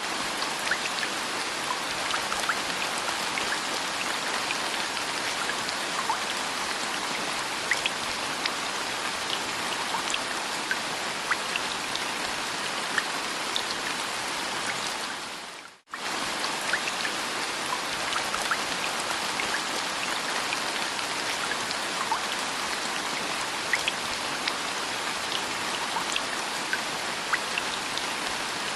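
Steady rain falling, with scattered drops tapping distinctly over the hiss. It fades out to silence for a moment about halfway through, then comes straight back.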